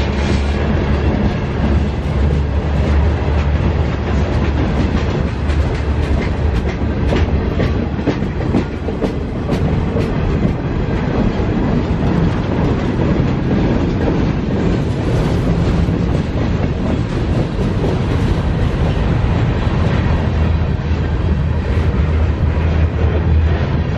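Freight cars of a CSX mixed freight train rolling past: a steady low rumble of wheels on rail, with a run of sharp clicks from the wheels crossing rail joints partway through.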